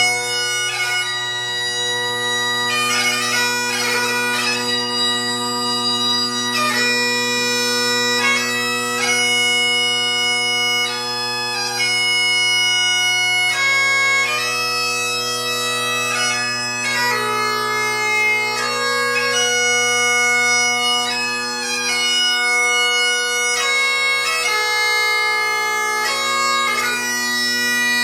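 A Great Highland bagpipe played solo: the drones hold one steady low tone throughout while the chanter plays a melody of changing notes above it.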